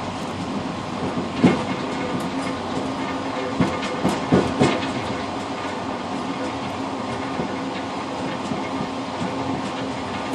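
Passenger train running, heard from inside the rear vestibule of the tail car: a steady rumble with sharp clacks of the wheels over rail joints, once about a second and a half in and several in quick succession around four seconds in.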